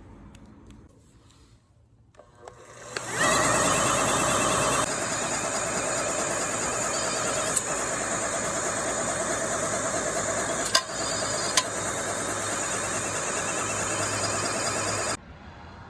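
A power tool's motor starts about three seconds in, runs steadily for about twelve seconds with a few sharp clicks, and cuts off suddenly near the end.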